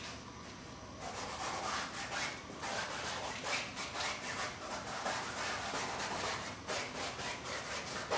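Repeated rubbing strokes, several a second, starting about a second in.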